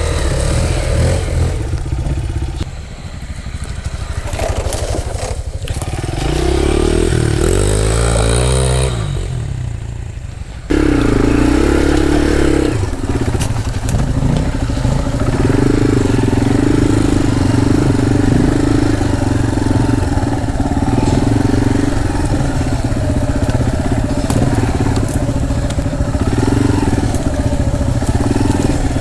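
Dirt bike engine revving hard, its pitch rising and falling with the throttle. About ten seconds in the sound cuts abruptly to a louder, steadier run of the engine pulling under load.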